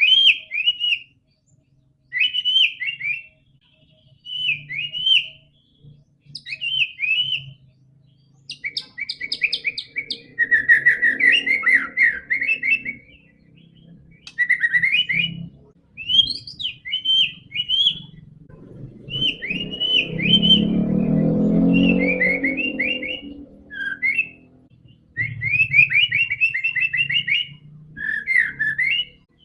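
White-rumped shama singing: short whistled phrases repeated again and again with brief pauses between them. A low rumbling noise runs underneath for a few seconds about two-thirds of the way in.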